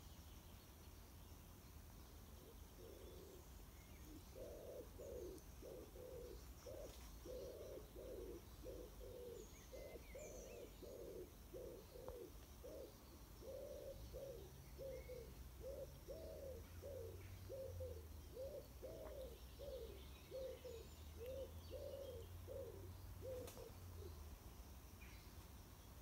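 Faint, low-pitched bird calls repeated steadily, about one and a half to two a second, for some twenty seconds, with a few faint high chirps of other birds.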